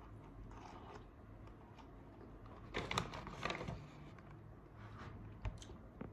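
A person biting and chewing crunchy food close to the microphone, with a run of crackly crunches a little before halfway through and a single sharp crunch near the end.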